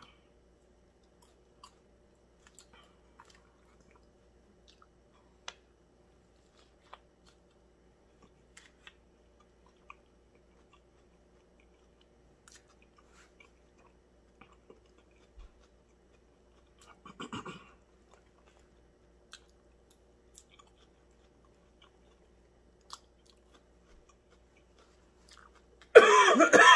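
Close-up chewing of a steak and cheese sub, with faint wet smacks and clicks scattered through. There is a short murmur from the eater about two-thirds of the way in, then a loud cough near the end.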